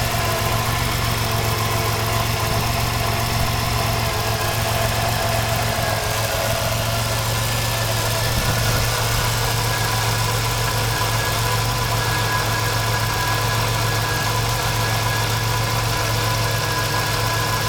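Engine idling steadily several minutes after a cold start, with a slight change in its tone about six seconds in.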